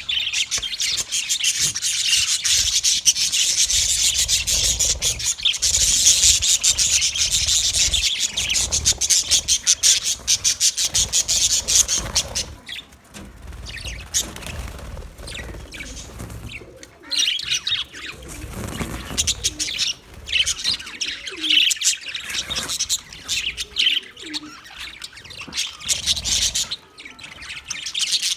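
A flock of budgerigars chattering and chirping, dense and continuous for about the first twelve seconds, then thinner with short gaps.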